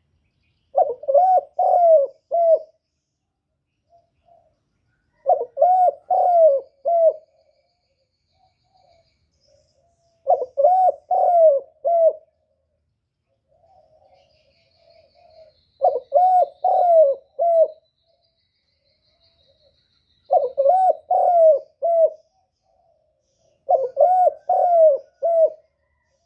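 A bird calling in repeated phrases of about four low notes each. There are six phrases, about four to five seconds apart.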